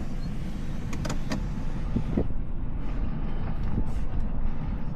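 Full-size pickup carrying a truck camper driving slowly onto a narrow dirt two-track: a steady low rumble, with a few sharp clicks and knocks now and then.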